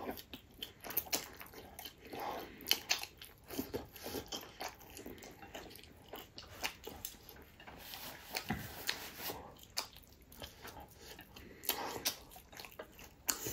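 Close-miked chewing and biting of food, a run of irregular short mouth clicks and smacks.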